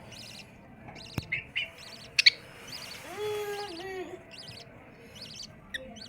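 Small pet birds chirping in short repeated bursts, with a couple of sharp clicks in the first half and a lower, wavering pitched call lasting about a second midway.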